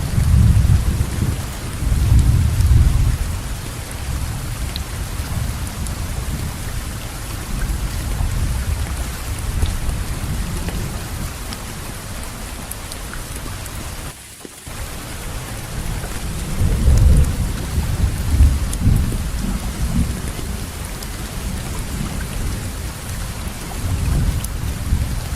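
Steady heavy rain falling, with low rolling thunder that swells and fades several times. The sound dips briefly about halfway through.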